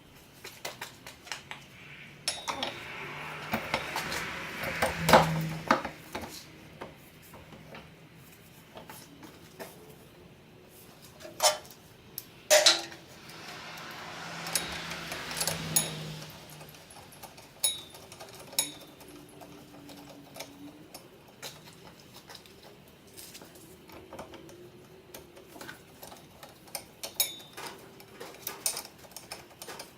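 Metal tools and parts clinking and clanking during car repair work. Two spells of a few seconds each hold a steady whirring hiss with a low hum, like a power tool running.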